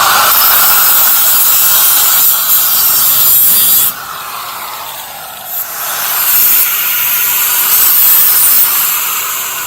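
Cut-off wheel on a power grinder cutting a small piece of sheet steel. It starts abruptly and loud, with the motor's pitch sagging under the load. It eases off about four seconds in, bears in again a couple of seconds later, and tails off near the end.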